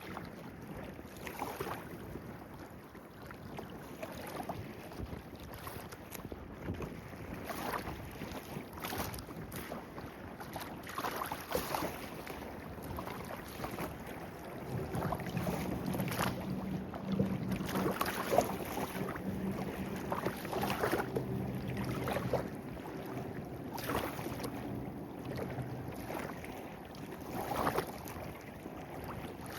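Small stream babbling and gurgling over stones, with many small splashes. From about halfway, a steady low hum joins for about ten seconds, then fades out.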